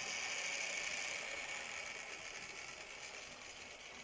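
Tender-drive Airfix OO gauge Royal Scot model locomotive running along the track at speed with three coaches, a steady mechanical whir that grows gradually fainter.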